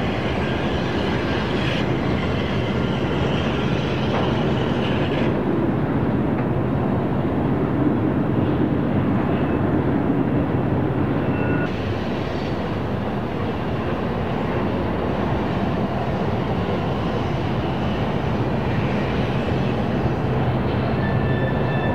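Freight train going by: its diesel locomotive engines run steadily over the continuous rumble of the train.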